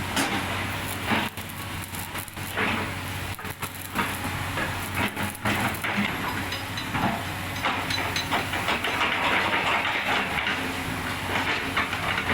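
Steady hissing, like air or spray under pressure, with scattered metallic clicks and knocks and a low steady hum underneath.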